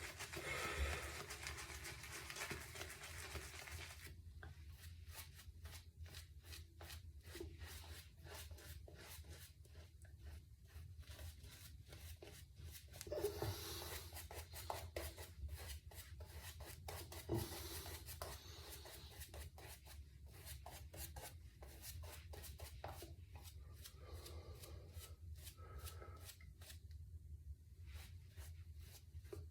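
Synthetic shaving brush swirling through shave soap lather: faint, quick, repeated swishing and rubbing strokes.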